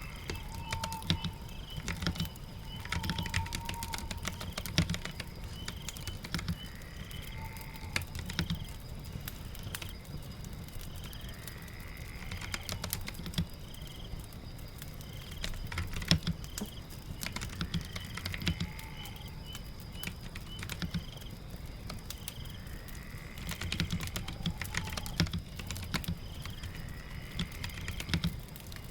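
Typing on a keyboard in uneven bursts of clicks over steady rain noise, with faint rising chirps now and then.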